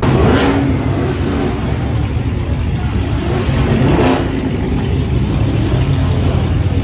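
Dodge Hemi V8 muscle cars idling loudly, with two quick throttle blips: one about half a second in and another around four seconds in.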